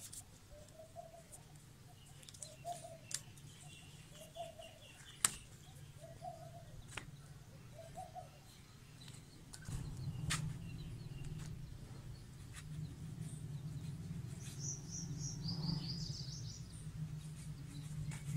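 Birds calling: a short low call repeated about once a second through the first half, with higher chirps and trills, over a few sharp clicks. A low steady hum comes in about halfway.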